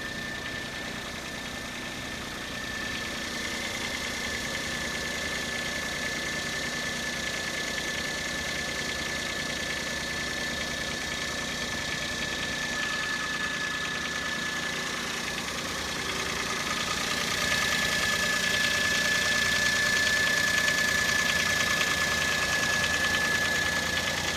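Daihatsu Cuore engine running with a rattling clatter and a steady high whine, getting somewhat louder about three quarters of the way through.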